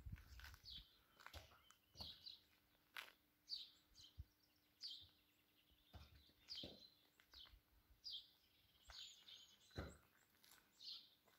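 Small birds chirping: short, high, falling chirps repeated about once a second. A few faint knocks sound under them.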